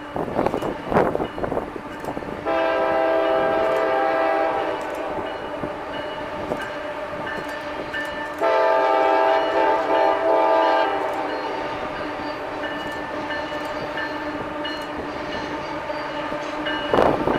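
CSX freight locomotive's air horn sounding two long chords of several notes, each about two seconds, the second starting about six seconds after the first. Underneath, the passing train's wheels run on the rails with clattering clicks.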